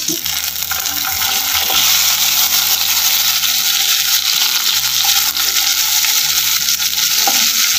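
Tomato pieces sizzling in hot mustard oil with bay leaf, dried red chilli and cumin seeds in a kadai, stirred with a wooden spatula. The sizzle is steady and loud throughout.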